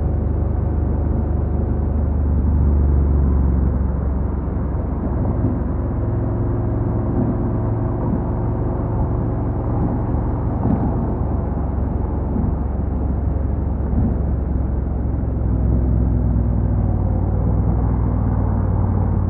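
Honda NC750X's parallel-twin engine running steadily at low revs, its pitch shifting slightly a few times as the revs change.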